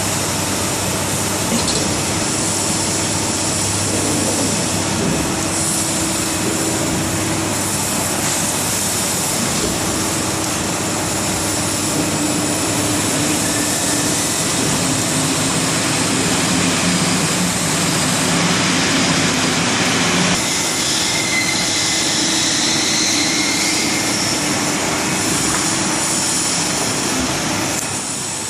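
Steady industrial machinery noise: a continuous hum and hiss with a few held tones that shift about two-thirds of the way through.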